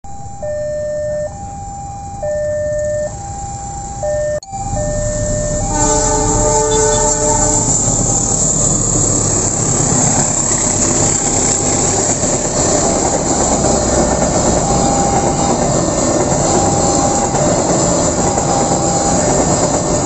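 Railway level-crossing warning alarm sounding an alternating two-tone chime, about one tone a second. A passenger train then sounds its horn for nearly two seconds and passes, its wheels rumbling and clattering over the rails, while the crossing alarm keeps chiming faintly underneath.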